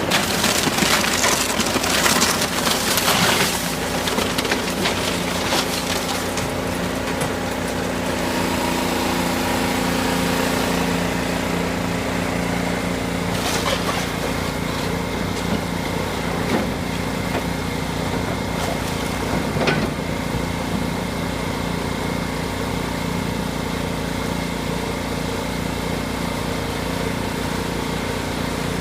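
A heavy machine's engine running steadily while building material is crunched and splintered apart during the first few seconds. A few single knocks of falling debris follow later.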